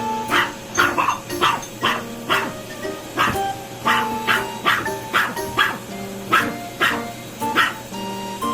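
Dog barking again and again, a few sharp barks a second, over background music.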